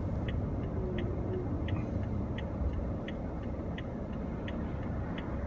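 Car turn-signal indicator ticking evenly, about three ticks every two seconds, over the low rumble of the car running.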